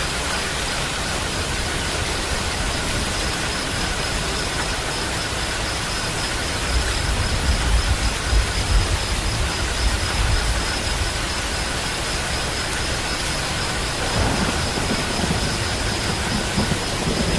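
Steady rain, a dense even hiss, with a low rumble swelling briefly about halfway through and the rain turning rougher near the end.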